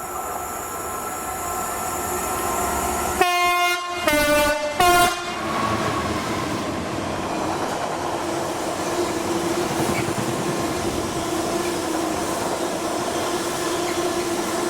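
Train horn sounding three short blasts about three seconds in, the middle one lower in pitch than the other two, then the steady run of the train with a held hum.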